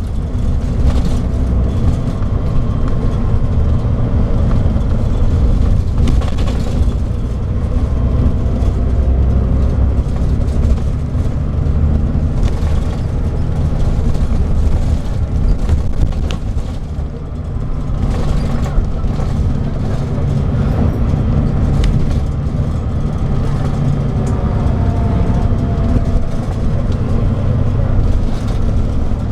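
Scania DSC9 diesel engine of a Scania K340IB coach running steadily with a deep drone, with faint whines rising and falling in pitch as the coach speeds up and slows down.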